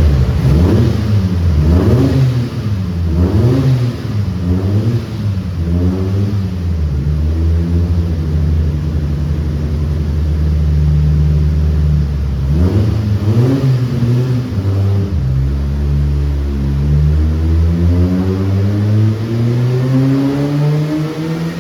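Toyota Tazz's swapped-in 20-valve four-cylinder engine being revved: a string of quick rev blips rising and falling, then held steady for several seconds, another blip, and a slow climb in revs near the end.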